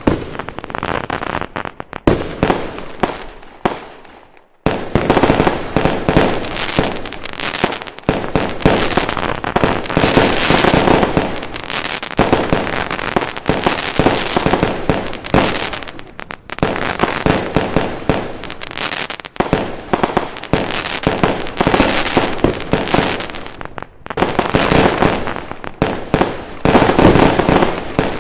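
Fireworks going off in a dense, rapid barrage of bangs and crackles. There is a brief lull about four seconds in, then a sudden loud burst and the barrage resumes.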